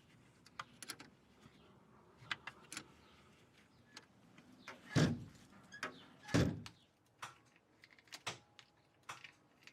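Scattered light clicks and knocks of tools and metal parts being handled during a bus battery replacement, with two louder thuds about five and six and a half seconds in.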